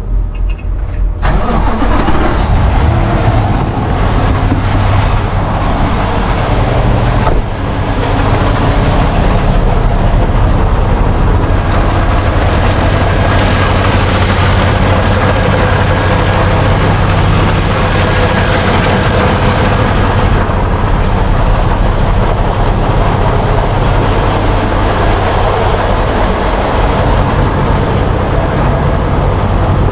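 A truck's diesel engine idling steadily, with a loud even hiss of outdoor noise that comes in suddenly about a second in.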